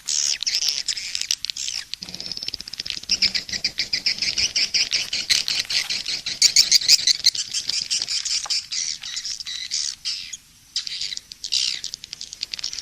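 Edible-nest swiftlets twittering: a dense, continuous mix of rapid high chirps and trills, a swiftlet 'SP' (suara panggil) calling-sound track of the kind played to lure swiftlets to a nest house. The chirping thins briefly about two-thirds of the way through.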